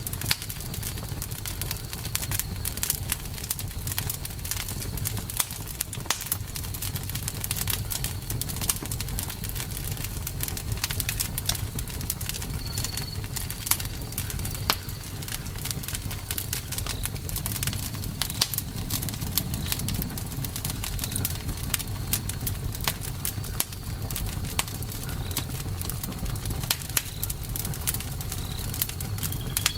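Wood campfire burning: a steady low rumble of flame with dense, irregular crackles and pops throughout. A few faint, short high chirps come through now and then.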